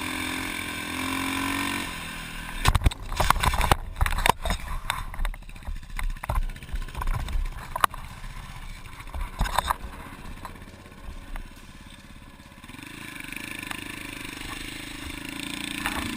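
Motorcycle engine running, then a sudden hard impact about three seconds in, followed by several seconds of knocks and clattering: a motorcycle colliding with a deer and crashing. An engine tone rises again near the end.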